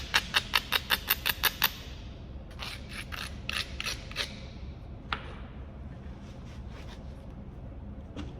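Kentucky hornstone being worked in flintknapping: quick runs of light, sharp clicks of a tool against the stone, about six a second, then a pause and a few scattered single clicks.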